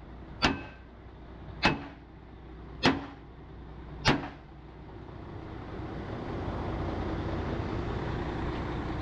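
Four hammer blows on steel, about one every 1.2 seconds, the first ones ringing. After that a steady mechanical noise builds up and holds.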